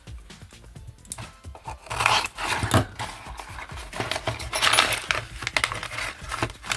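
Model kit parts and their packaging being handled: rustling and tearing with small clicks of metal and plastic pieces, starting about two seconds in.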